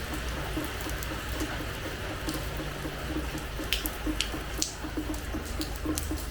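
Rain falling on a hard terrace floor: a steady hiss of rainfall with individual drops splashing close by and a quick, repeated dripping.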